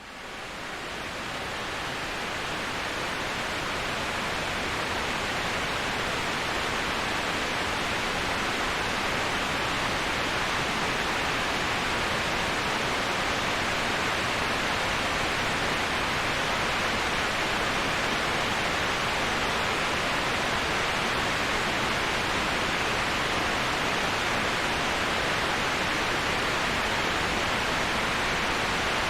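Steady, even rushing of a waterfall white-noise track. It fades in from silence over the first two seconds or so, then holds constant with no distinct splashes or other events.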